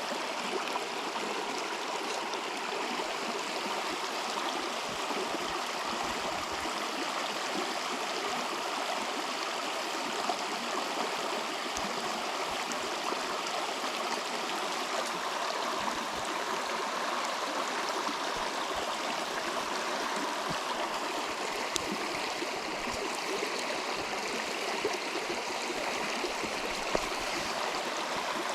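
River water flowing steadily over a riverbed, an unbroken rushing noise, with a few faint clicks.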